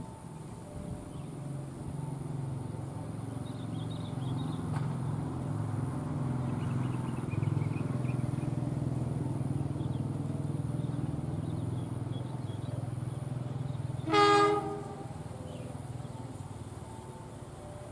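Train passing with a steady diesel locomotive rumble that builds over the first several seconds, and one short horn blast about fourteen seconds in.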